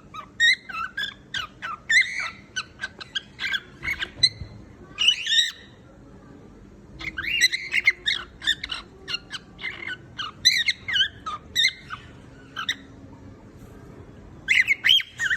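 Cockatiel singing: rapid runs of chirps and whistles in three bouts, with pauses about six seconds in and again about twelve seconds in.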